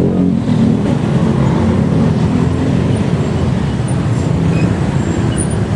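Steady low rumble of wind and road noise from a moving bike, with traffic around it.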